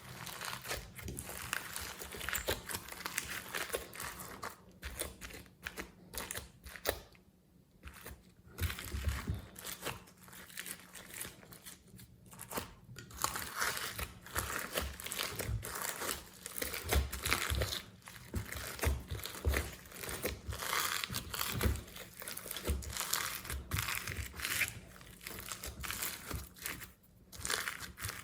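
Glossy slime being kneaded and stretched by hand: sticky, irregular crackling and popping clicks, with a couple of brief pauses.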